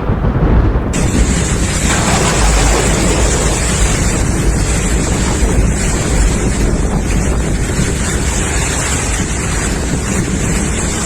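Strong storm wind blowing steadily and buffeting the microphone, with a brighter rushing hiss joining about a second in.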